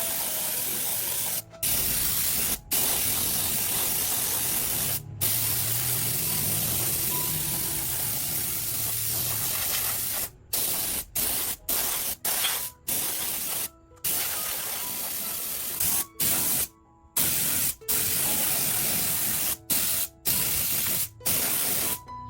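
Pressurised spray hissing loudly and steadily, cut off and restarted about fifteen times in quick trigger-like breaks, more often in the second half, then stopping near the end.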